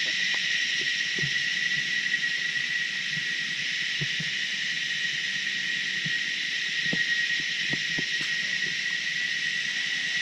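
Steady, unbroken insect chorus, a dense high buzzing with a pronounced constant tone, typical of rainforest insects such as cicadas or crickets. A few faint low knocks are scattered through it.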